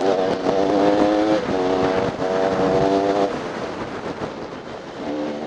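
Dirt bike engine revving in repeated bursts as the throttle is opened and chopped: three pulls, then a quieter couple of seconds, then it picks up again near the end.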